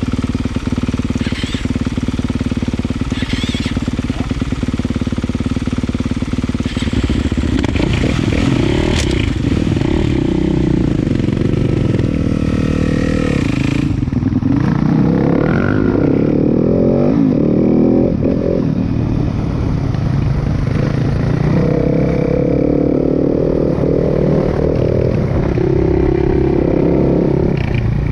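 Husaberg 450 four-stroke single-cylinder dirt bike engine running, first with even firing, then revving up and down with the throttle as it is ridden.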